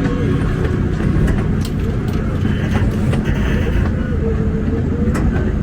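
Engine-driven C.P. Huntington 2 ft narrow-gauge train running, a steady low rumble heard from aboard, with a couple of sharp clicks from the wheels and cars.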